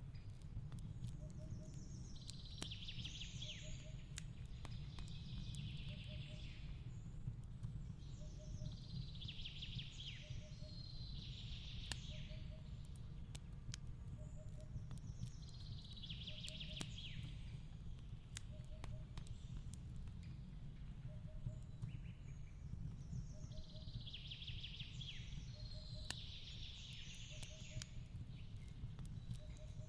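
Fireplace crackling in scattered sharp pops over a low steady rumble, mixed with a songbird singing short warbling phrases every few seconds and a faint low chirp repeating about once a second.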